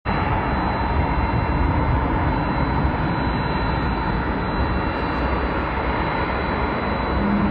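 Jet airliner's engines at takeoff power: a loud, steady rushing noise with a faint high whine. A low steady hum joins near the end.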